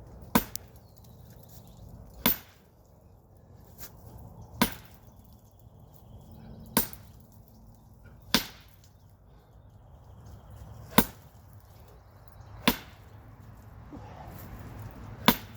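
Sledgehammer blows landing one at a time on a hard target, eight sharp cracks about every two seconds.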